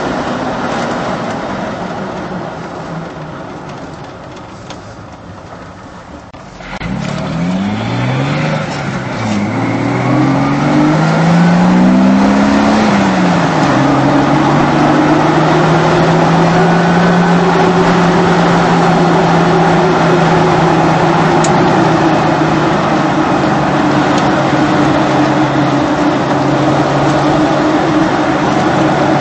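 Jeep Wrangler engine through an aftermarket Banks Monster cat-back exhaust. The exhaust note fades away over the first few seconds. Then it starts up again sharply and rises and drops several times as the Jeep accelerates and shifts up through the gears, and it settles into a steady drone at cruising speed.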